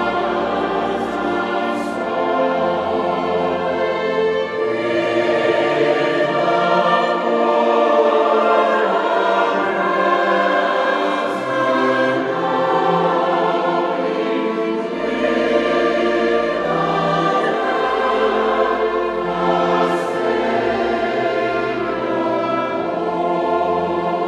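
A choir singing with instrumental accompaniment, long held chords over sustained low bass notes.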